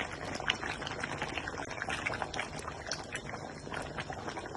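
A cooking pot bubbling at the boil, with many small pops and crackles.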